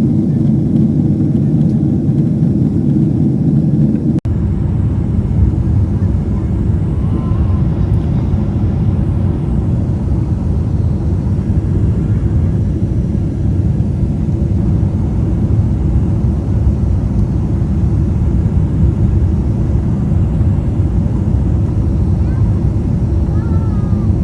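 Jet airliner cabin noise during the climb after takeoff: a steady, loud, low rumble of engines and airflow, with a momentary break about four seconds in.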